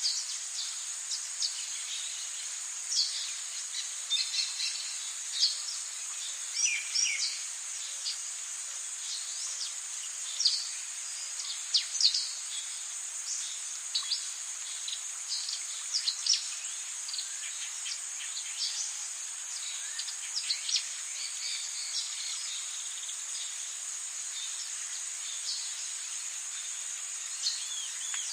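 Rainforest ambience: a steady, high-pitched insect drone with many short bird chirps scattered over it. The chirps thin out near the end.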